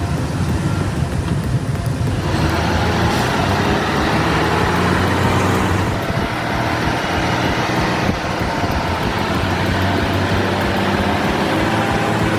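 Heavy-haul truck engine running steadily with a low drone, over road and traffic noise.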